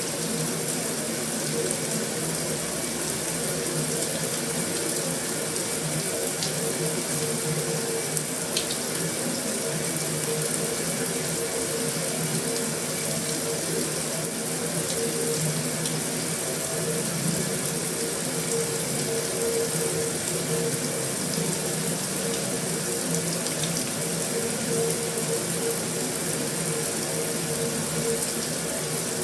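Heavy rain falling steadily on a metal roof, an even unbroken hiss with a few faint ticks of single drops.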